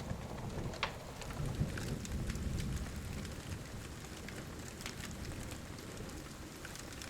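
Steady pouring rain with a low, distant thunder rumble that swells in the first half and then fades, dotted with a few sharp crackles.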